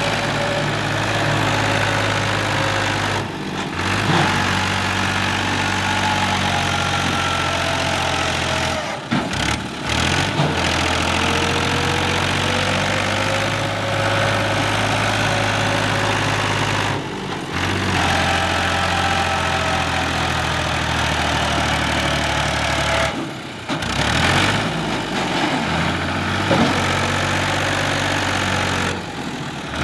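Fiat 480 tractor's diesel engine running hard, its pitch rising and falling, as it works to pull a loaded trolley out of sand. It breaks off abruptly several times.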